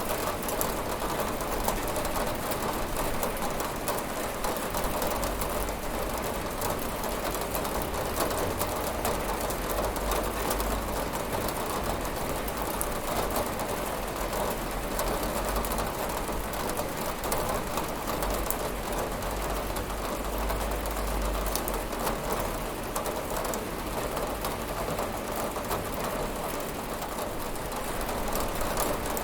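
Steady rain pattering on a window pane, a dense even hiss of drops with a low rumble underneath that swells and fades.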